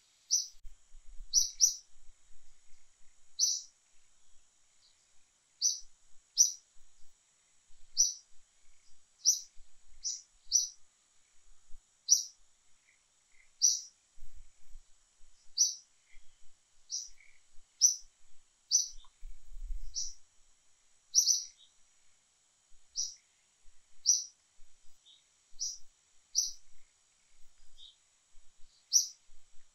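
A bird chirping: short, high chirps repeated unevenly about once a second, with a faint steady high hum behind them.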